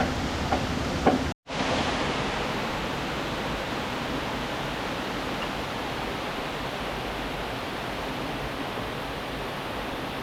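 Steady rushing of river water, an even roar without change. In the first second and a half a couple of sharp knocks sound before the audio cuts out briefly.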